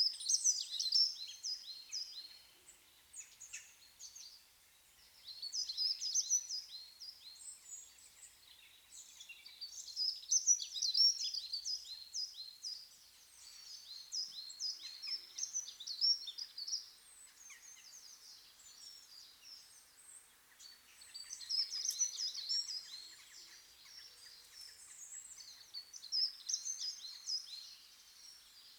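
Small birds chirping and singing in repeated bouts of quick, high, falling notes, each bout a few seconds long with short pauses between.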